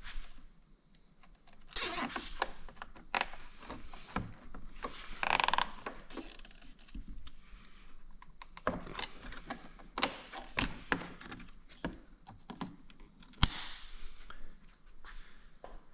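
Scattered clicks, knocks and short scrapes of hand work with tools and hardware, with two longer rasping bursts about two and five and a half seconds in and a sharp knock near the end.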